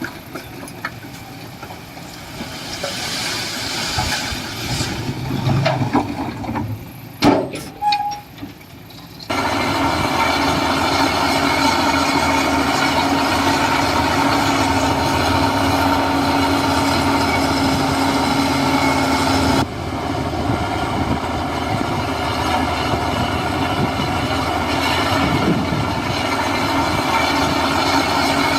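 Diesel engine of heavy earthmoving machinery running. It is uneven with a few knocks for the first several seconds, then settles into a steady hum after an abrupt change about nine seconds in, with another sudden shift near twenty seconds.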